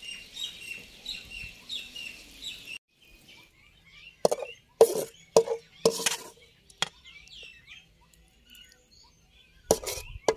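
Birds chirping: a quick run of repeated high chirps, about four a second, for the first few seconds, then scattered calls among several short, sharp sounds.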